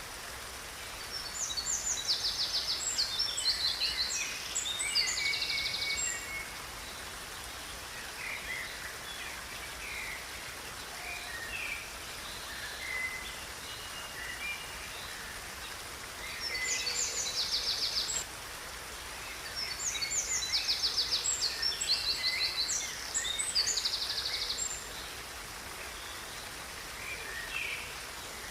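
Birds singing in rapid high trills, in three long bouts separated by shorter scattered chirps, over a steady background hiss.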